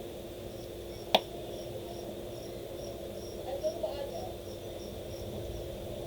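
High chirps repeating about three times a second over a steady background hum, with one sharp click about a second in.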